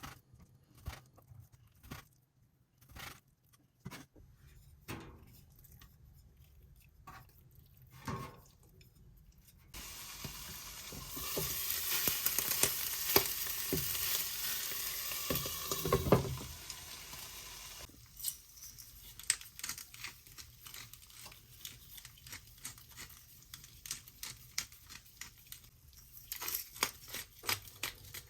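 Scattered light clicks and taps of things being handled, with a steady hiss starting about ten seconds in and lasting about eight seconds.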